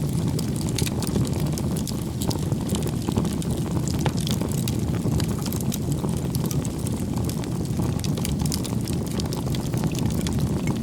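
Wood bonfire burning: a steady low rumble of flames with frequent, irregular sharp crackles and pops from the burning firewood.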